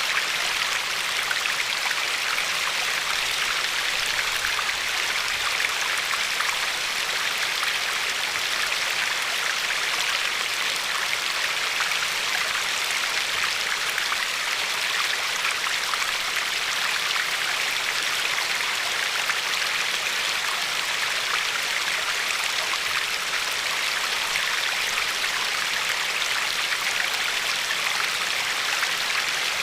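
River water flowing and lapping along a pebble shore: a steady, even rush of water with no changes.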